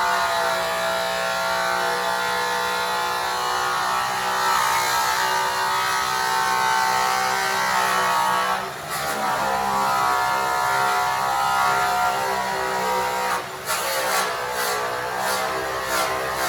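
Makita GA7021 angle grinder with an airway buff, running against an aluminum truck wheel during the cutting stage of polishing. Its motor whine shifts in pitch under load and drops out briefly twice. Near the end it takes on a rhythmic pulsing about twice a second.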